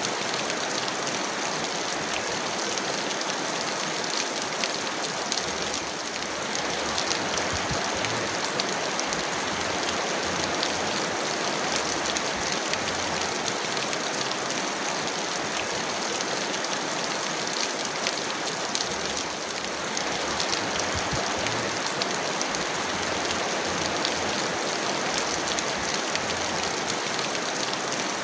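Heavy rain falling steadily, a dense even hiss with scattered sharp drop ticks. It eases briefly twice.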